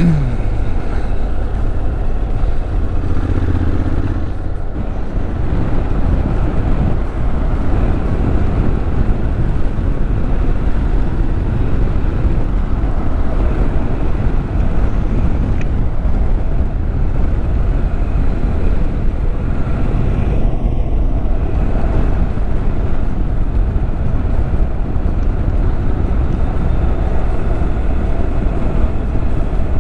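Motorcycle under way: steady engine running mixed with heavy wind and road noise on the rider's camera microphone.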